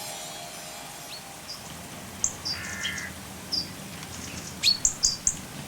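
Birds chirping: scattered short, high chirps and quick rising whistles, with a lower call in the middle and a busier run of loud chirps near the end, over a faint steady background hiss.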